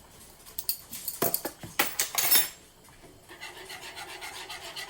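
A few sharp clicks and rattles of a measuring spoon and spice container as garlic salt goes into the pot. Then, from about three seconds in, a spoon scrapes steadily and rhythmically through the cream sauce in the pot.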